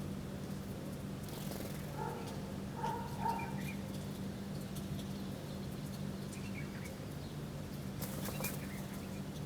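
Birds calling: a few short calls about two to three seconds in and again near the end, with brief noisy bursts that fit wings flapping, over a steady low hum.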